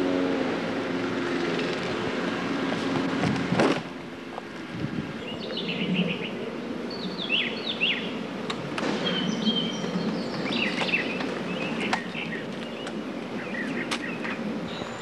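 Small birds chirping in short, quick falling calls, repeated on and off over steady outdoor background noise. A single sharp knock about three and a half seconds in is the loudest sound.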